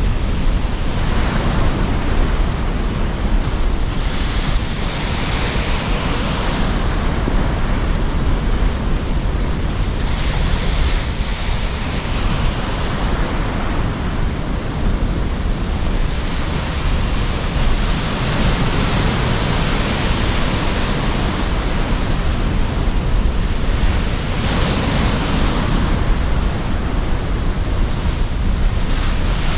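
Sea surf breaking on the shore under strong, gusty wind, with a constant low rumble and waves swelling in every few seconds.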